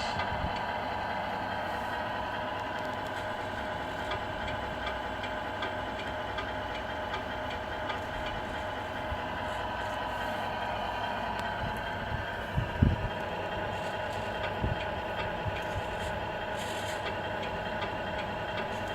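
RC model Scania R470 truck running with a steady mechanical hum that holds one pitch, with a few knocks about two thirds of the way in.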